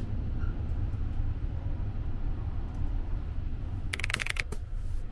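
Low steady rumble of the Sunrise Izumo sleeper train running, heard from inside the carriage. A short burst of clicking and rattling about four seconds in.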